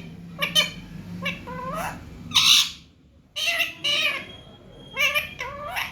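Baby parrot calling in a string of short squawks and chirps, several rising in pitch, with one loud harsh squawk about halfway through.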